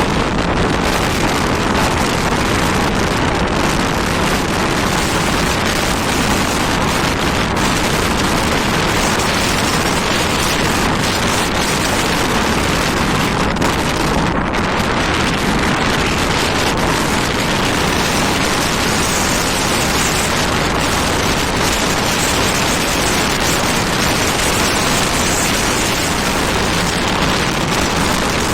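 Strong wind blowing hard across the microphone: a loud, steady rush of noise that holds at one level throughout.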